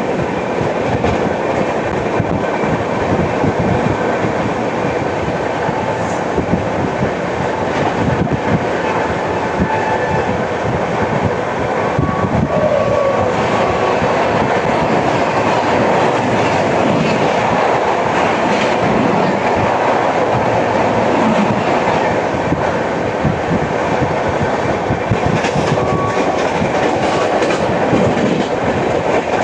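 Coaches of the 12810 Howrah–CSMT Mail running at speed, the wheels clattering steadily over the track, which the uploader presents as flat-wheel sound.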